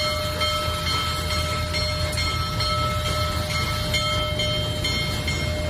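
A train locomotive running: a steady low rumble with several thin, steady high tones above it.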